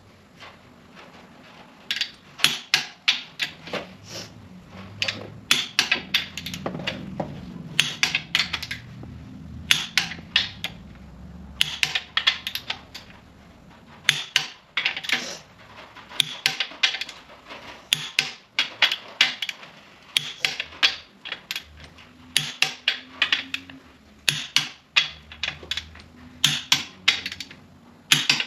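Clicker-style torque wrench ratcheting in quick runs of sharp metal clicks as bolts on a 5.9 Cummins block are tightened, on the step up to about 140 ft-lb. The runs of clicks come in clusters throughout, with short pauses between.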